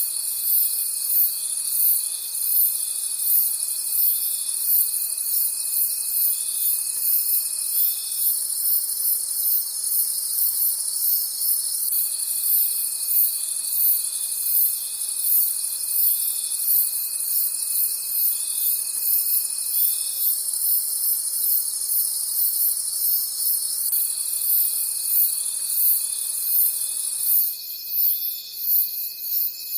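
Crickets chirping at night in a steady, even rhythm of about two high chirps a second over a continuous high insect trill. A second steady high tone runs alongside and drops out twice for a few seconds.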